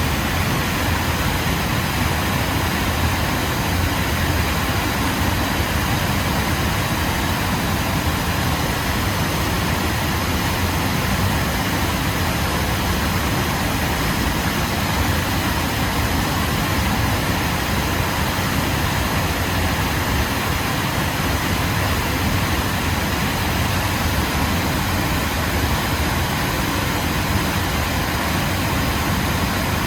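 Waterfall: a steady rush of falling water with a deep rumble beneath it.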